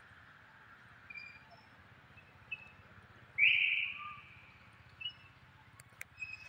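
Short, high bird chirps scattered over a steady faint outdoor hiss. One much louder call comes about three and a half seconds in, lasting under a second and fading away.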